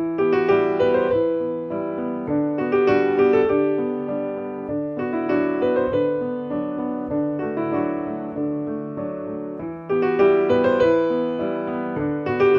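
Slow piano music, a melody of phrases with a fresh cluster of notes struck every two to three seconds.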